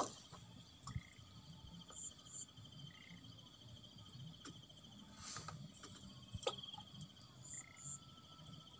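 A steady, fast high trill of insects, like crickets, with short chirps coming in every second or so. A few faint clicks sound over it.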